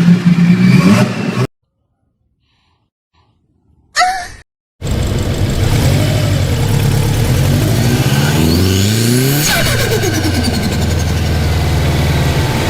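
Turbocharged car engine running loudly, cut off about a second and a half in. After a short burst near four seconds, the engine revs hard with its pitch climbing again and again as the car accelerates, then holds steady near the end.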